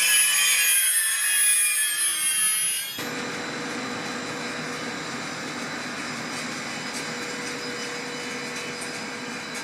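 Train wheels squealing on the rails, a cluster of high ringing tones, for about the first three seconds; it cuts off abruptly into a steady rushing noise with a faint constant hum, typical of a train running or standing with its equipment running.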